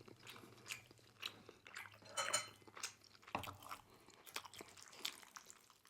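Faint, close-miked eating sounds: chewing with scattered small clicks and a brief louder noisy sound about two seconds in.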